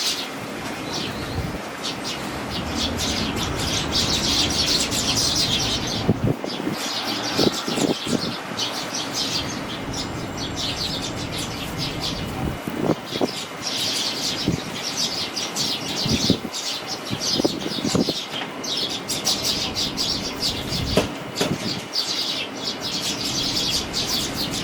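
Sparrow fledglings chirping in quick bursts of high, repeated cheeps, over strong wind rumbling on the microphone.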